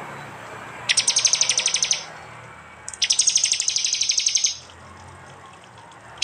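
Prinia (prenjak) giving its 'tembakan' burst song: two fast, high trills of rapidly repeated sharp notes, the first about a second in and lasting about a second, the second starting about three seconds in and lasting about a second and a half.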